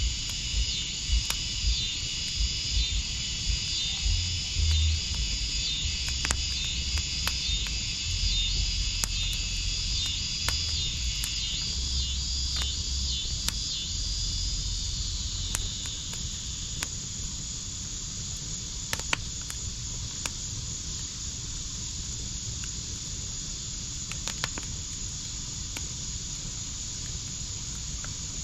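Backyard wood fire crackling with scattered sharp pops over a low rumble that eases about halfway through. An insect chirps in a steady pulsing rhythm, about once a second, and stops about halfway through.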